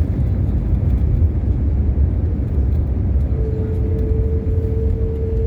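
Steady low engine rumble of a vehicle. A single steady hum tone joins it about three seconds in.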